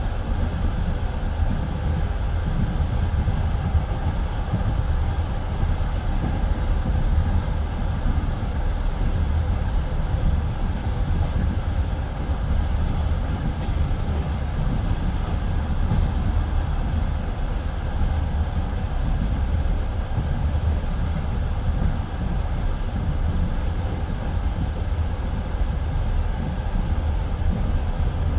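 Passenger train coach running at speed between stations, heard from inside by the window: a steady, deep rumble of wheels on the rails.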